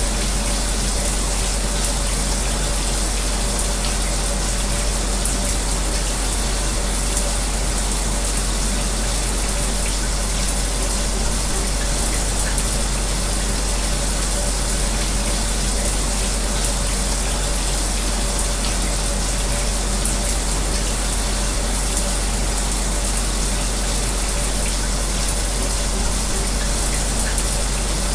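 Shower running steadily, a constant rush of falling water, with a fan's steady low hum underneath.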